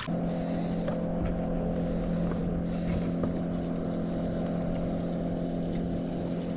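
A boat motor running with a steady, even hum of several low tones that sets in suddenly and stays unchanged.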